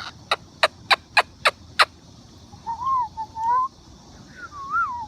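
Six sharp clicks in quick succession, then a Moluccan cockatoo's soft, wavering, whistle-like calls that rise and fall in pitch.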